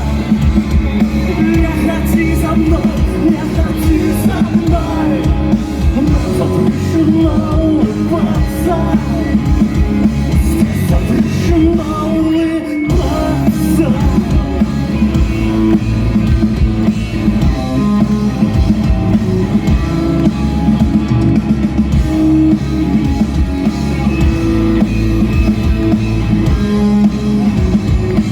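Live rock band playing: drum kit and electric guitars, with a brief break in the low end about halfway through.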